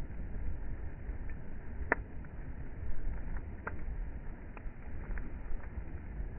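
Beach bonfire crackling, with a handful of sharp pops spaced irregularly, over a steady low rumble.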